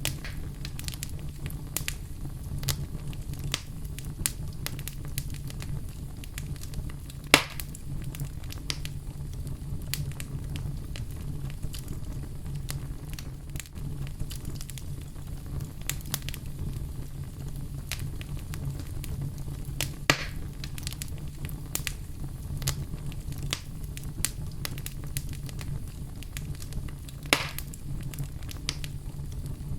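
Fireplace fire crackling steadily over a low rumble, with many small snaps and three louder pops spread out at irregular intervals.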